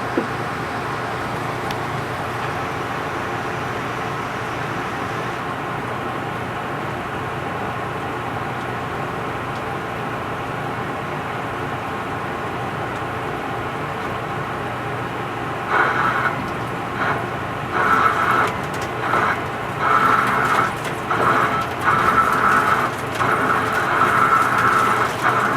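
Metal lathe turning a large steel part, running with a steady machine hum. About 16 seconds in, a louder high-pitched tone starts, coming and going in uneven bursts over the hum.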